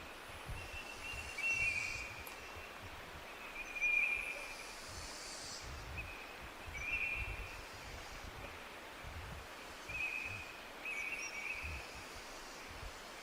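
Birds calling in short, repeated phrases every two to three seconds over a steady outdoor hiss.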